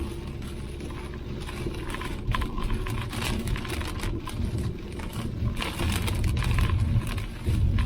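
Car driving on a road: a steady low rumble of tyres and engine, with scattered ticks and rattles.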